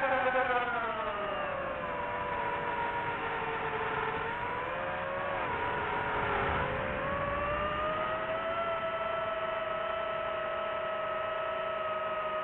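Quadcopter drone's propellers and motors whining. The pitch falls over the first couple of seconds, dips again about six seconds in, then rises and holds steady.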